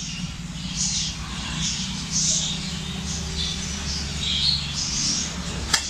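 Small birds chirping in short, scattered high calls over a faint steady low hum, with one sharp click near the end.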